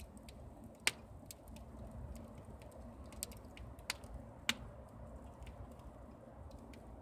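Campfire crackling, with scattered sharp pops; the loudest come about a second in and about four and a half seconds in.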